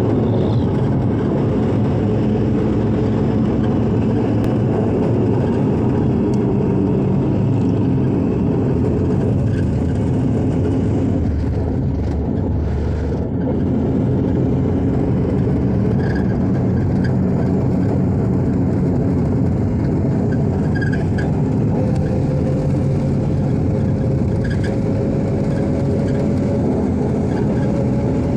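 A motor vehicle running steadily, a continuous engine and road rumble with a faint tone slowly rising in pitch near the end.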